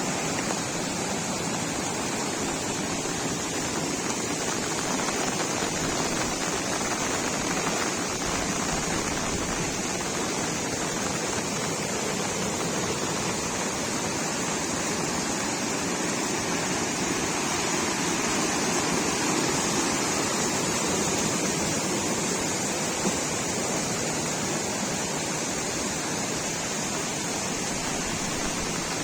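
Fast-flowing water rushing steadily, a river running high after heavy rain.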